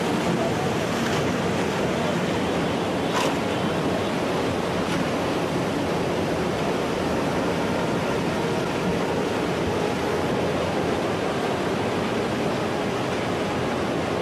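Tsunami seawater surging, a loud steady rush of waves and water.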